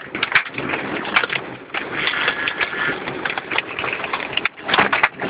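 Hailstones and rain pelting a moving car's roof and windshield, heard from inside the cabin: a dense, irregular clatter of quick hits over a steady wash of noise.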